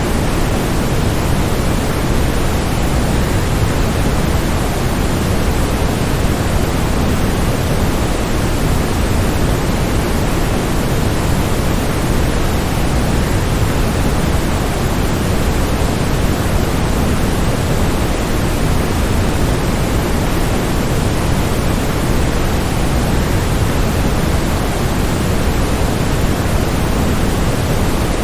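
Waterfall: a steady, unbroken rush of falling water, heaviest in the low pitches, with no single splashes or changes standing out.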